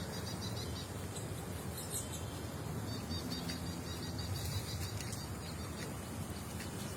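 Small bird chirping: quick runs of short, high chirps, one brief run at the start and a longer one about three seconds in, with a few scattered higher chirps, over a steady low background rumble.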